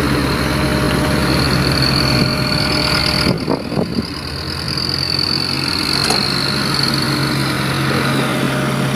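Dump truck engine running steadily with a high whine over it, broken briefly by a few knocks about three and a half seconds in.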